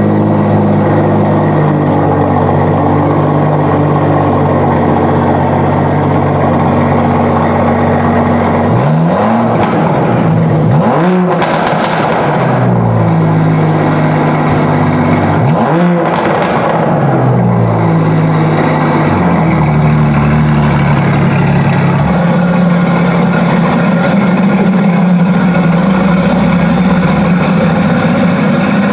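Aston Martin DBS Superleggera's 5.2-litre twin-turbo V12 fast-idling just after a cold start. It is revved twice, about nine and fifteen seconds in, each time rising and falling back. Near the end it settles to a lower, steady idle.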